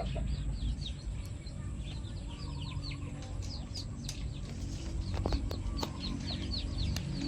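Young chicks peeping: many short, high, downward-sliding peeps in quick runs, over a steady low rumble.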